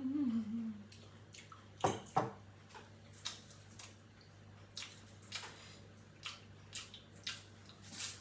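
Close-up eating sounds: wet mouth smacks, chewing and slurping, with scattered small clicks and two sharper clicks about two seconds in. A brief hum comes at the very start.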